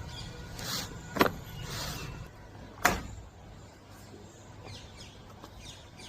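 Air pistol fired twice, two sharp cracks about a second and a half apart, with softer handling noises around them.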